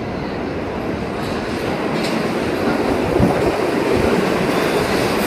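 R46 subway train entering the station, a rumble of wheels and motors growing louder as it approaches, with a couple of knocks from the wheels about three and four seconds in.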